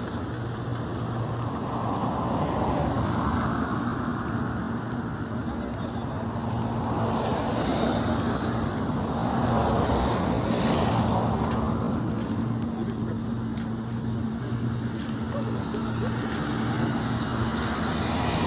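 Road traffic: motor vehicles running with a steady engine hum, the noise of passing cars swelling and fading several times.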